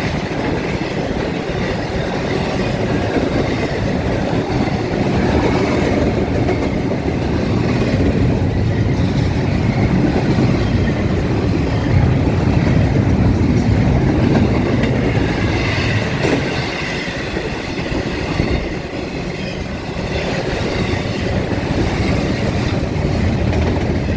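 Norfolk Southern train rolling past on the rails, a loud, steady run of car and wheel noise.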